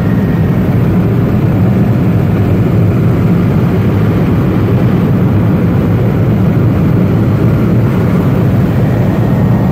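Helicopter in flight heard from inside the cabin: loud, steady engine and rotor noise that does not change.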